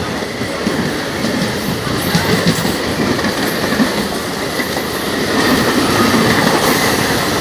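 Suburban electric local train running along the track, getting louder about five seconds in.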